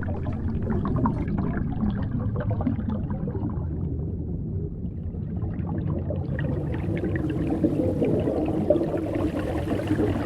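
Steady rushing, water-like noise.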